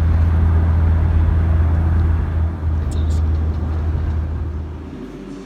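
Steady low rumble of a road vehicle heard from inside the cabin, dropping away near the end.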